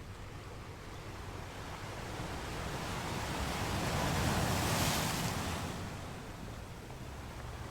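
Sea waves breaking on a rocky shore: a steady wash of surf that swells to one loud crash about four to five seconds in and then draws back.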